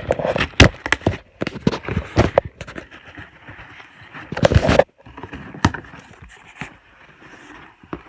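A cardboard shipping box being opened and unpacked by hand: irregular rustling, scraping and knocks of cardboard and packing, with one loud scraping burst of about half a second just past the middle.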